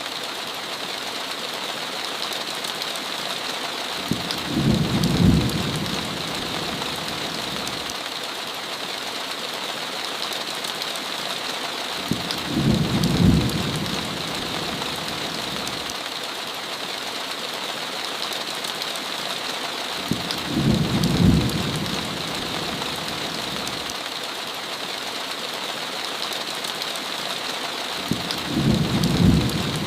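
Steady heavy rain hiss, with a low thunder rumble swelling and fading four times, evenly about every eight seconds.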